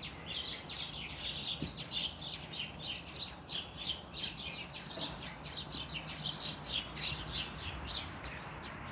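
Wild birds chirping: a dense run of short, high chirps, each one dropping in pitch, several a second and unbroken.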